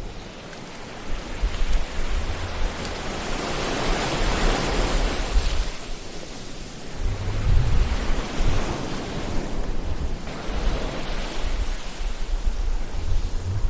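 Ocean surf: waves washing in and breaking, the wash swelling about four seconds in and again near eight seconds, over a low, uneven rumble.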